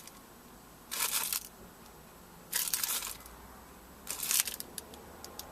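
Four short rustling, crunching noises, roughly one and a half seconds apart, over a faint low hum.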